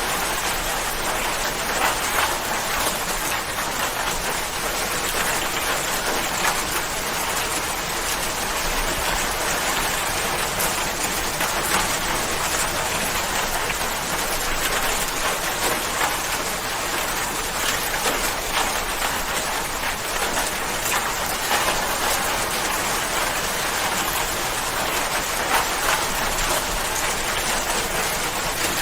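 Steady rain falling, a dense hiss of drops with fine scattered patters of individual drops hitting a surface.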